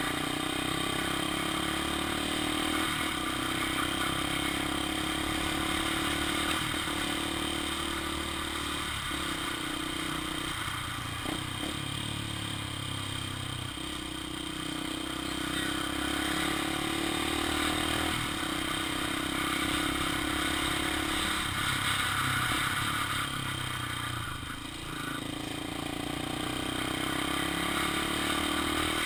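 Honda XR 250 Tornado's single-cylinder four-stroke engine running as the bike is ridden, its note shifting in steps every few seconds, over a steady rush of noise.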